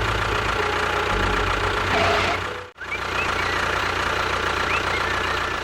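Engine running steadily, cutting out abruptly for a moment about halfway through and then carrying on.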